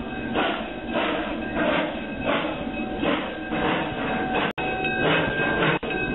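Steam locomotive No. 119 under way, its exhaust chuffing in an even rhythm of about one and a half beats a second. The sound cuts out briefly about four and a half seconds in.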